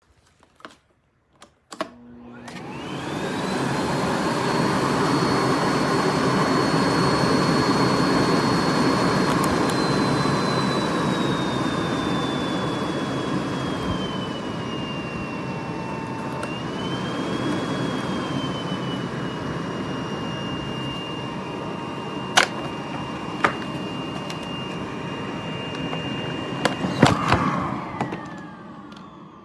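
Miele Blizzard CX1 bagless canister vacuum cleaner starting with a click, its motor spinning up to a steady high whine that slowly falls in pitch partway through. A few sharp clicks and knocks come in the second half, and near the end the motor is switched off and winds down with a falling whine.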